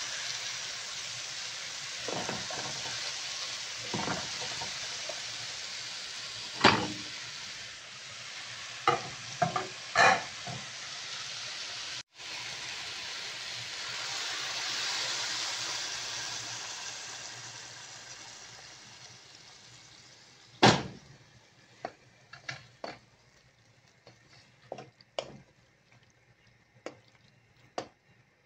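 Chicken and okra sizzling in a hot pot as they are stirred with a wooden spatula, with sharp knocks of the spatula against the pot every couple of seconds. About halfway through, water is poured in and the pot hisses loudly, then the sizzle dies away to a few light knocks and clicks.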